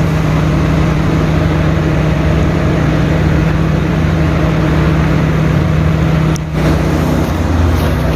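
Compressed-air blowgun blasting air through a large truck air filter element to clean it: a loud, steady hiss that breaks off briefly about six seconds in, over a steady low hum.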